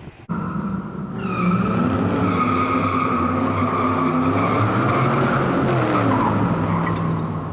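Vehicle noise: a steady high squeal over lower tones that shift in pitch, starting abruptly and running on without a break.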